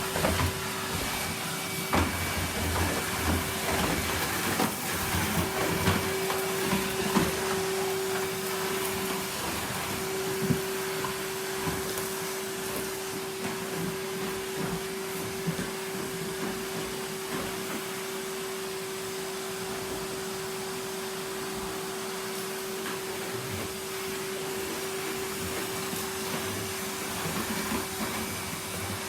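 Numatic Henry canister vacuum cleaner running steadily, its motor giving a steady hum under the rush of air through the hose, with occasional sharp clicks.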